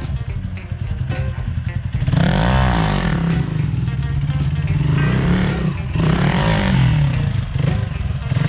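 Dirt bike engine running, revved up and back down twice: once about two seconds in and again a few seconds later.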